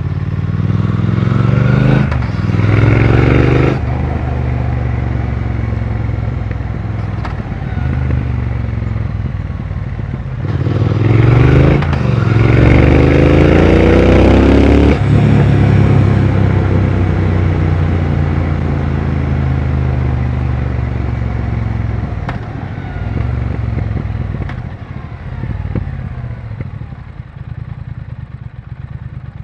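Triumph Speed Twin 1200's 1200 cc parallel-twin engine and exhaust under way: a short burst of acceleration about two seconds in, then a longer pull with rising revs from about ten seconds that cuts off sharply around fifteen seconds. After that the revs fall steadily as the bike slows on a closed throttle, quieter near the end.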